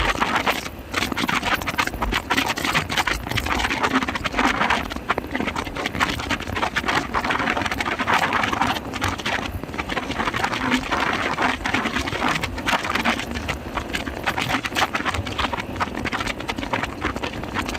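Wind rushing and buffeting over the microphone on a motorbike moving at highway speed, a steady rough noise broken by rapid, irregular thumps.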